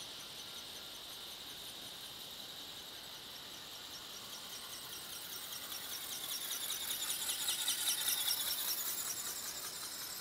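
Electric motor and propeller of an RC flying wing whining in flight, swelling louder about five seconds in, peaking near eight seconds and fading as it passes by.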